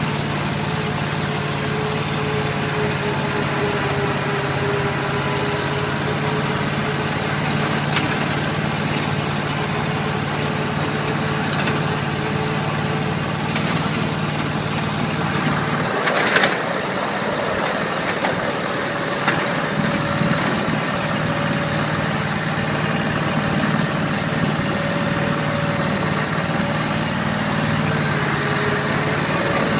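Tractor engine running steadily. About halfway through there is a sharp, louder noise, its low hum drops away and a few clicks follow, and near the end the hum comes back.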